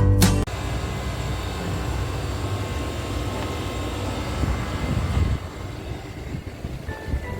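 Strong sandstorm wind gusting against the microphone, an uneven low rumbling noise that eases somewhat about five seconds in.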